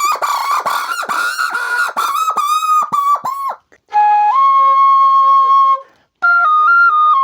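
Rapid, wavering whistled calls imitating a bird for about three and a half seconds, then a bamboo flute holding one long steady note and, near the end, starting a tune that steps from note to note.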